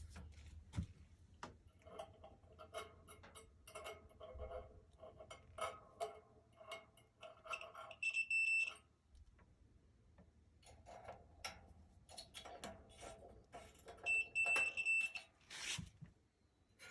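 Multimeter continuity beeper sounding twice, a short steady high beep about 8 seconds in and a slightly longer one about 14 seconds in, each showing a closed circuit where the probes touch. Around them come many small clicks and rattles of the test probes being handled against the dryer's metal parts.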